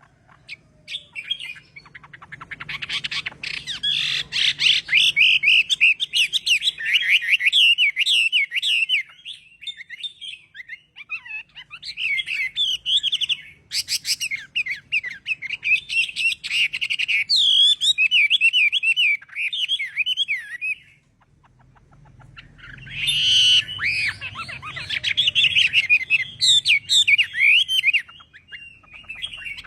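Chinese hwamei singing: long, fast, varied warbling phrases in three bouts, broken by brief pauses.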